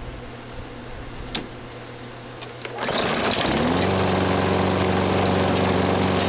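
Toro push mower's small engine starting about three seconds in, its pitch climbing quickly as it comes up to speed, then running steadily. Before it starts there is a low steady hum and a couple of sharp clicks.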